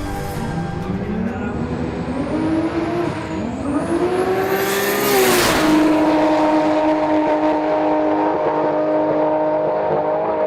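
Ford Barra turbocharged 4.0-litre straight-six accelerating twice, its pitch climbing each time with a high turbo whistle rising alongside. About five seconds in there is a short loud rush of air, and then the engine holds a steady pitch.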